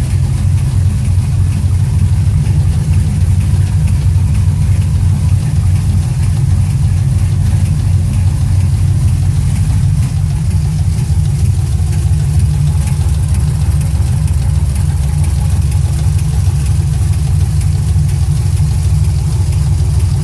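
2006 Chevrolet TrailBlazer SS's 6.0-litre LS2 V8 idling steadily, with the engine knock the owner is recording.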